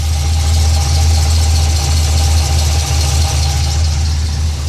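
GTO engine running steadily at idle, with a strong low hum. Under it is the noise the owner places at the bottom of the engine toward the mid pipe.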